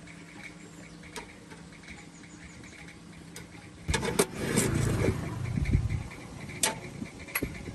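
Workshop sounds over a steady low hum: scattered sharp metallic clicks, and about four seconds in a louder burst of mechanical noise lasting about two seconds.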